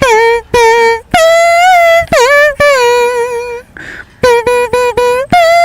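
High-pitched voice singing a string of short clipped notes and a few longer held ones, with a short break about two-thirds of the way through.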